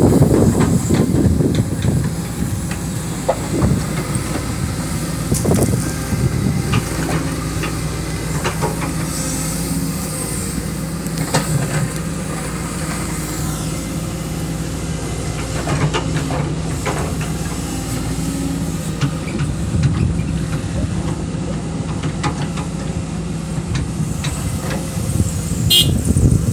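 Kobelco hydraulic excavator's diesel engine running steadily under load while digging sand, with occasional knocks from the bucket and arm.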